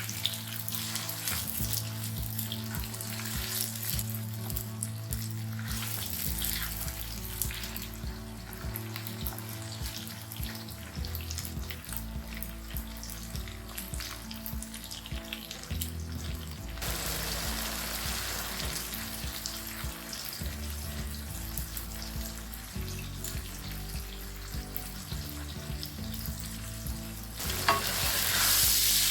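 Food frying and sizzling in hot oil in a wok, with stirring, under background music; the sizzle swells louder near the end.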